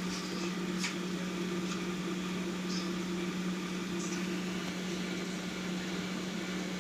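A steady low mechanical hum, like a fan or appliance motor running, with a few faint clicks.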